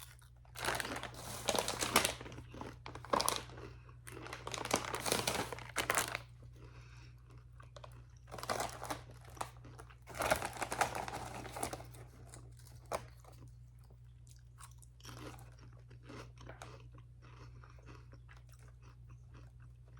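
A person biting into and chewing crunchy ridge-cut potato chips, the loudest crunches in the first half, fading to quieter chewing later.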